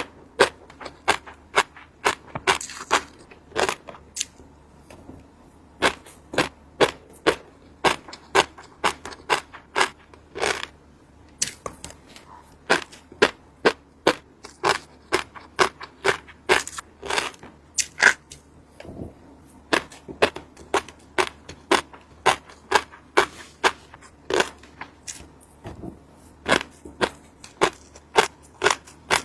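Fish roe crunching and popping: a long, irregular run of sharp crisp clicks, about two or three a second, with a couple of short pauses.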